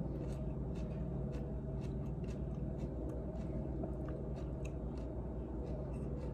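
Close-up chewing of crunchy raw shredded carrot salad, with short crunches about twice a second over a steady low hum.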